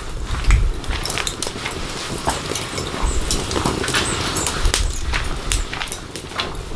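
Wood fire crackling: many irregular sharp snaps and pops over a steady hiss, with irregular low rumbles.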